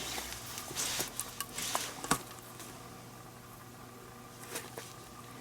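Leather glove lace being forced through a tight lace hole: short scraping rubs of leather on leather with small clicks, mostly in the first two seconds, then a few faint rustles.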